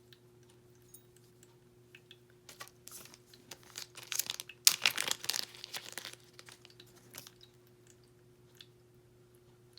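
Plastic packaging crinkling as it is handled and opened, building from about two seconds in to a loud crackling rustle near the middle, then dying away, with a few small clicks.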